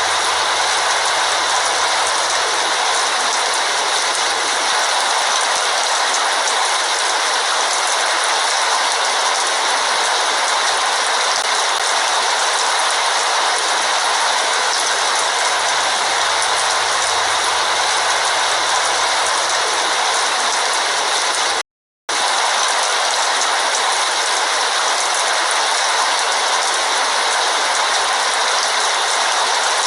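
Heavy rain falling steadily, a dense even hiss. It cuts out completely for a split second about two-thirds of the way through.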